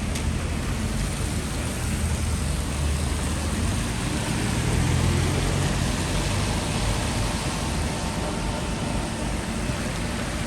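Road traffic on a wet street: the low engine rumble of passing vehicles, loudest about four to six seconds in, over a steady hiss.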